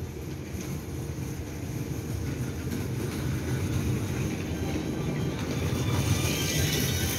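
Taiwan Railway EMU900-series electric commuter train approaching down the line, its rumble on the rails growing steadily louder and picking up a hiss near the end.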